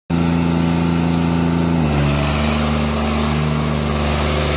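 New Holland tractor's diesel engine running hard and steadily, its note dropping slightly a little under two seconds in.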